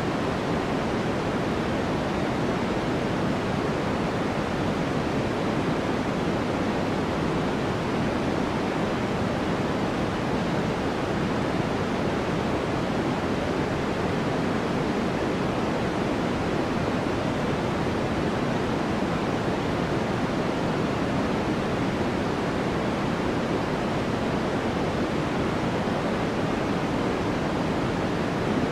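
Steady study-background noise track: an even, unbroken rush that sounds deep rather than hissy, with no changes or events.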